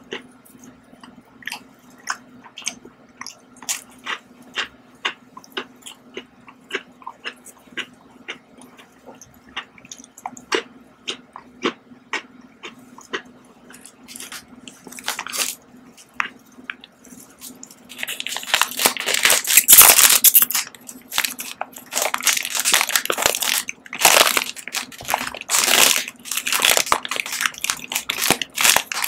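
Close-miked crunchy biscuit being bitten and chewed, with repeated sharp crunches. About eighteen seconds in, a much louder crackling takes over as a plastic snack wrapper is handled and pulled open.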